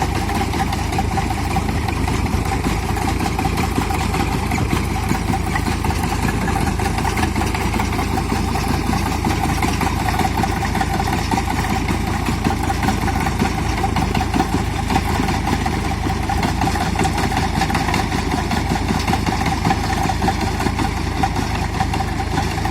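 Sonalika 745 tractor's diesel engine running steadily at an even speed, without revving up or down.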